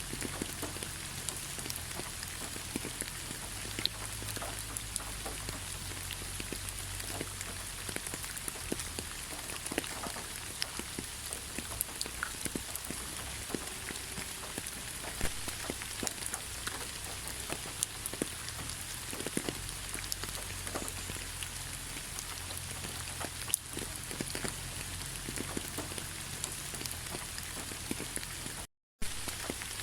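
Steady rain falling, an even hiss with many individual drops tapping close by. The sound cuts out completely for a split second near the end.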